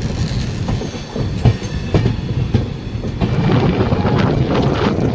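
Train wheels clicking over rail joints with a steady rolling rumble. The rattle grows louder and busier about three seconds in.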